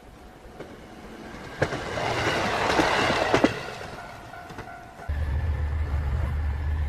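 A heavy vehicle passing in a rising and falling rush of noise with two sharp knocks, then a sudden cut to a steady low engine drone.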